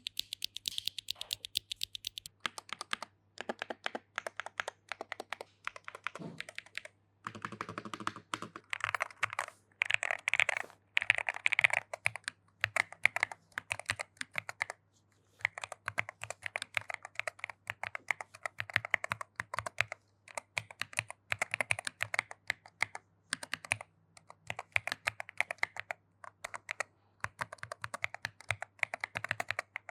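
AULA HERO75 tray-mount mechanical keyboard with magnetic switches being typed on in fast flurries with short pauses, each keystroke a crisp click on bottom-out.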